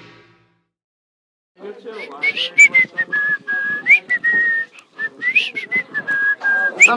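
A person whistling a tune in held notes with short slides between them, starting about one and a half seconds in.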